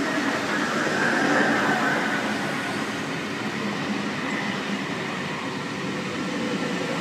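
NSW TrainLink V-set double-deck intercity electric train rolling past while arriving at the platform: a steady rumble of wheels on rails. The sound swells slightly, with a faint high squeal, around one to two seconds in.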